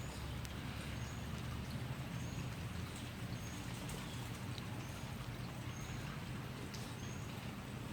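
Outdoor backyard ambience: a steady low hiss with faint, short high chirps repeating roughly once a second and a few faint ticks.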